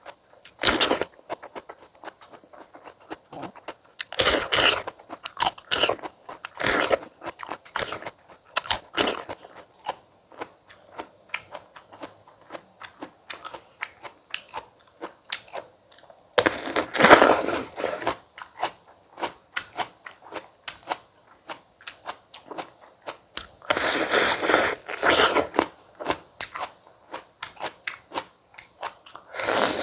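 Close-miked biting and chewing of fresh stone fruit: loud, crisp bites come at irregular intervals, with a longer burst about halfway through and another near the end, and soft wet chewing clicks between them.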